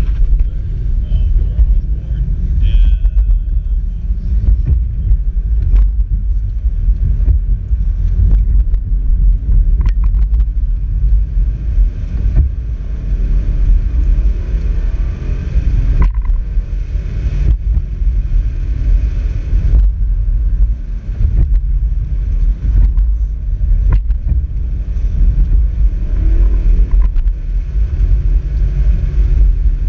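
2014 Ford Mustang GT's 5.0-litre V8 working hard through an autocross course, heard from inside the cabin as a loud low rumble. It comes in strongly right at the start and surges and eases every few seconds as the throttle goes on and off between the cones.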